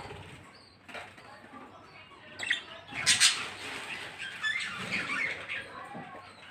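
Caged pet birds chirping and squawking, with a brief rustle of wings about three seconds in.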